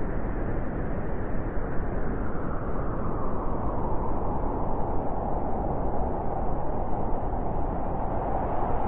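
Blizzard wind blowing steadily, a dense rushing with a howl that grows stronger a few seconds in.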